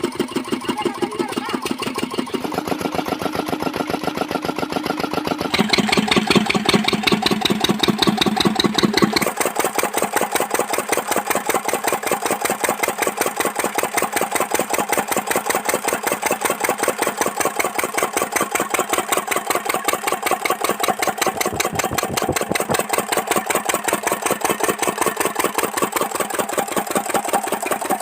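Lister stationary diesel engine running steadily with an even, rapid chugging beat of several firing pulses a second. Its tone shifts about six seconds in and again about nine seconds in, after which it sounds thinner with less low end.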